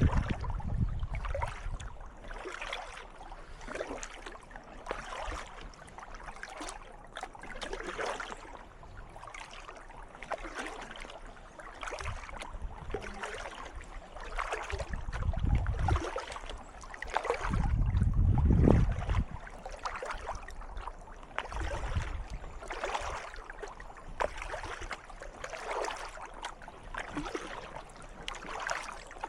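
Kayak paddle strokes dipping and splashing in calm water at a steady, regular rhythm, with drips off the blade between strokes. Two louder low rumbles come near the middle.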